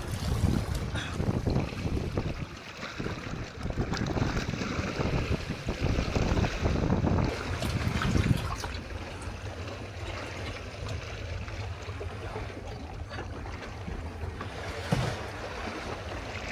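Wind buffeting the microphone over sea waves, gusty and loud for the first eight seconds or so, then settling to a steadier, quieter rush.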